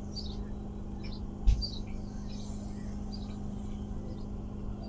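Small birds chirping in short, repeated notes over a steady low hum, with a single thump about a second and a half in.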